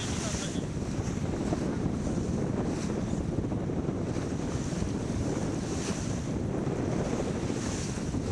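Wind buffeting the microphone over the rush of water along the hull of a sailboat under way, with a few brief hissing swells of spray.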